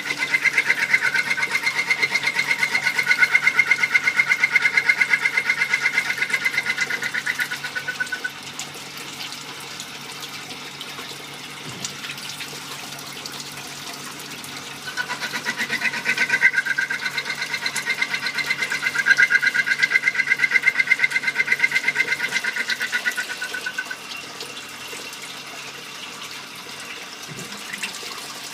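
Small-diameter automatic lathe machining a part with coolant splashing. Two stretches of about eight seconds each carry a high, fast-pulsing tone from the cut; the coolant hiss continues, quieter, between them.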